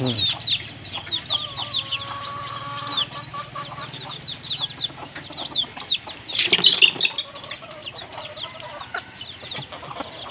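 Crossbred village chickens clucking, with rapid high peeps throughout, a drawn-out call early on, and a louder burst of calls about six and a half seconds in.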